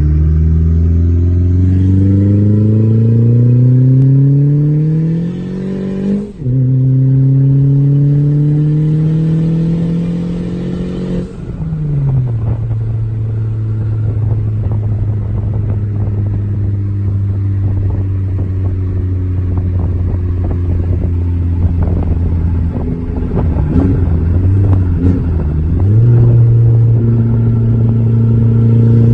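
Turbocharged 1.8-litre four-cylinder of a 2002 Volkswagen Jetta 1.8T, running a large AR63 turbo at about 12 to 15 psi, heard from inside the cabin under hard acceleration. The engine note climbs steadily, drops sharply at a gear change about six seconds in, and climbs again. About eleven seconds in it falls back to a steady cruise, with a few seconds of irregular clicking and rattling about three-quarters of the way through.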